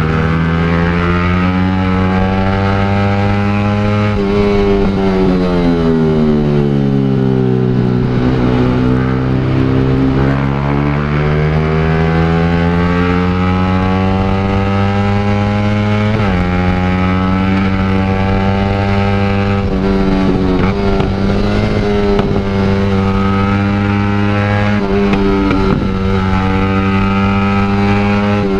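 Motorcycle engine running through an aftermarket exhaust while riding. Its pitch falls steadily over several seconds as it slows, climbs again as it speeds up, then steps up suddenly about sixteen seconds in and holds fairly steady.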